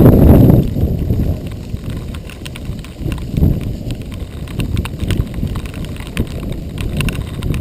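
Giant XTC 3 composite mountain bike rattling and clattering over a rough dirt trail, with many short irregular knocks and clicks over a low rumble. Wind buffets the microphone, loudest in the first half-second.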